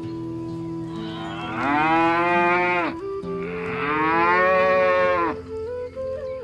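Two long cow moos, one after the other, each lasting about one and a half to two seconds and dropping in pitch as it ends, over soft background music with held notes.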